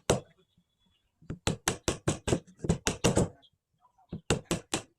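Wood being struck repeatedly with a hammer-like tool: a single knock, then two quick runs of sharp knocks, about four or five a second.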